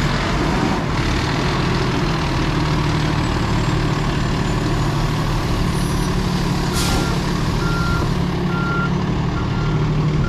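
Heavy truck's diesel engine idling steadily. About seven seconds in, a short hiss of released air, then a reversing beeper starts, beeping a little faster than once a second.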